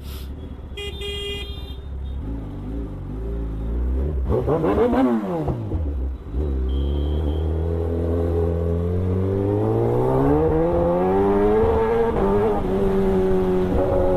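Kawasaki Ninja ZX-10R's inline-four engine through a loud exhaust. About four seconds in it is revved up and dropped back quickly, then from about six seconds on it pulls steadily higher in pitch as the bike accelerates.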